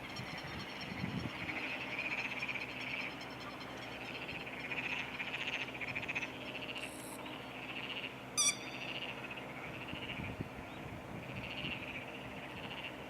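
A chorus of frogs calling in a flooded rice paddy, a steady run of repeated pulsed croaks. A single short, sharp bird call cuts in about eight seconds in.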